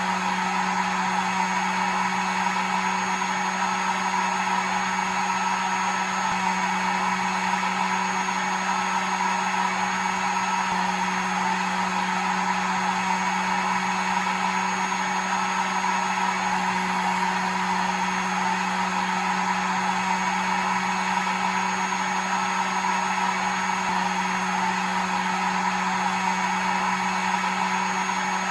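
Hair dryer running steadily: an even rush of blowing air over a constant motor hum.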